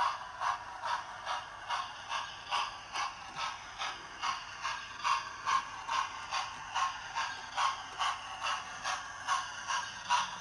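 Model steam locomotive's TTS sound decoder playing steam exhaust chuffs through its small onboard speaker, a steady rhythm of about two and a half chuffs a second as the loco runs at speed.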